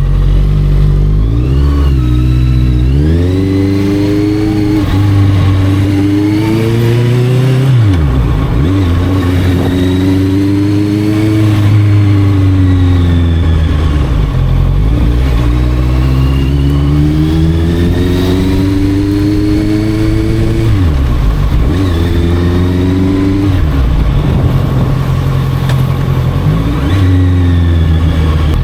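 Honda CB650F's inline-four engine through an aftermarket Arrow exhaust, running steadily at first and then rising and falling in pitch several times as the revs climb and drop back.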